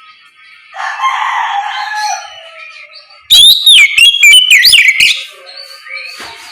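Oriental magpie-robin (kacer) singing a loud, clear whistled phrase of quickly rising and falling notes, lasting about two seconds, from about three seconds in. About a second in there is an earlier, harsher, rasping call.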